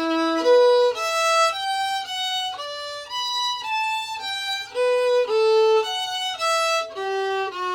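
Solo fiddle bowing a steady run of separate held notes, about two a second.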